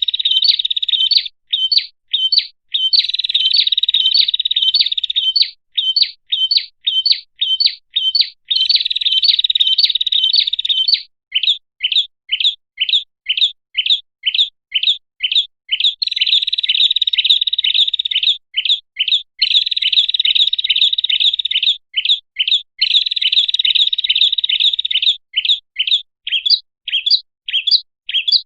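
Prenjak (prinia) lure call: loud, high chirps repeated in runs of short sharp notes, about three a second, alternating with fast buzzing trills of two to three seconds. It is a recording used to call wild prenjak in.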